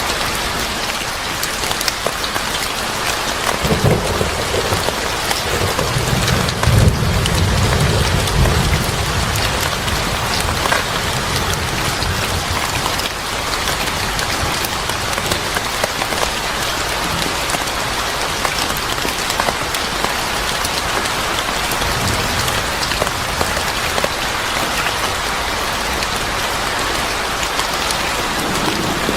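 Steady heavy rain falling, with a low roll of thunder from about four to nine seconds in.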